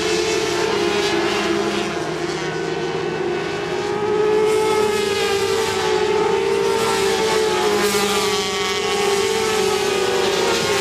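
Several 400 cc supersport racing motorcycles running at high revs, their engine notes rising and falling as they accelerate and shift. The sound gets louder about four seconds in.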